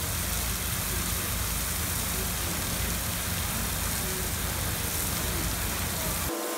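Heavy artificial rain from film-set rain towers falling steadily, a dense hiss with a low rumble under it. It cuts off abruptly near the end.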